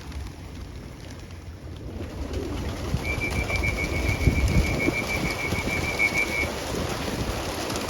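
A large flock of racing pigeons cooing and flapping, the rustle growing louder about two seconds in. Over it a high trilled whistle holds one steady pitch for about three seconds.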